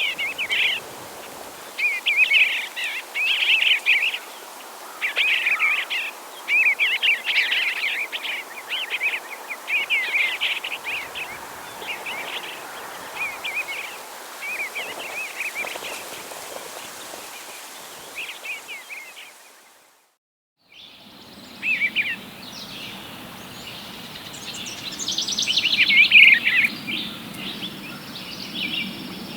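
Bluebird singing: short, soft warbled phrases repeated every second or two, fading out about two-thirds of the way through. After a brief dead gap, a second recording follows with more bird song and a steady low hum beneath it.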